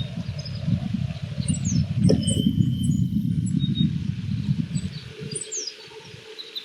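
Oriental greenfinch singing: groups of quick, high chirps that sweep downward, about a second and a half in and again near the end. Beneath them runs a louder low rumble that eases off after about five seconds.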